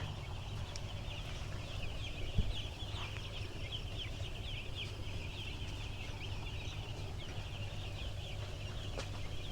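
A flock of seven-day-old broiler chicks peeping continuously, many high chirps overlapping, over a steady low hum. A single knock about two and a half seconds in.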